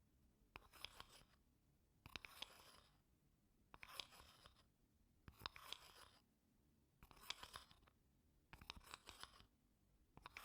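Wooden spoon scraping slowly across wooden blocks in short strokes, about seven strokes with brief pauses between them.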